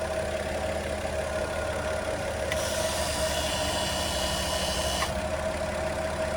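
Toyota Aristo's 2JZ-GTE twin-turbo 3.0-litre inline-six idling steadily with a constant hum. About two and a half seconds in, a hiss comes in for a few seconds, starting and stopping with a click.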